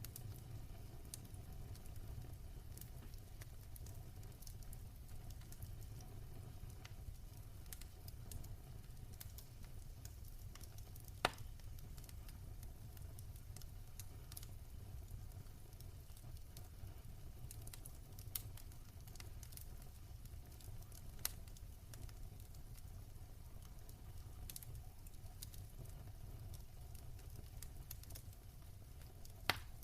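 Wood fire burning in a fireplace: a low steady rumble with scattered crackles and sharp pops, the loudest pops about 11 and 29 seconds in.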